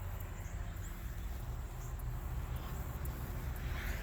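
Outdoor garden ambience: a steady low rumble on the microphone, with faint, brief high chirps now and then.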